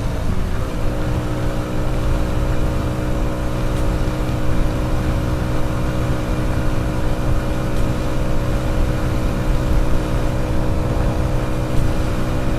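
Hero HF Deluxe's small single-cylinder engine running steadily at cruising speed, its pitch held even, with wind rumbling on the microphone of the moving motorcycle.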